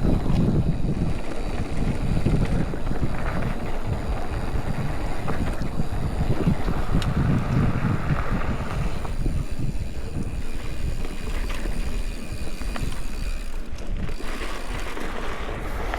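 Wind buffeting a chest-mounted action camera's microphone while riding a mountain bike, a heavy, uneven rumble with faint tyre and trail noise under it.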